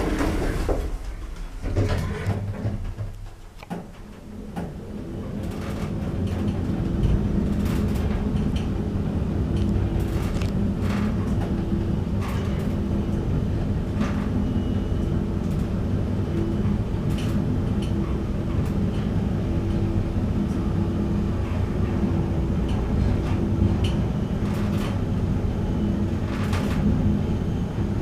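KONE MonoSpace 500 lift: the car doors move in the first few seconds, then the car travels with a steady hum and occasional clicks.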